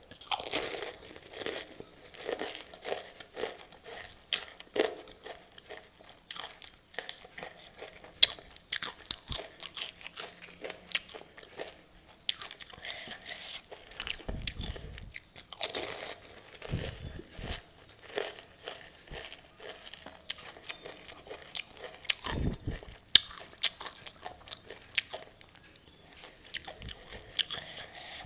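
Close-up crunching and chewing of crisp, hollow pani puri shells: irregular bites and crackles, with a few dull low thuds in between.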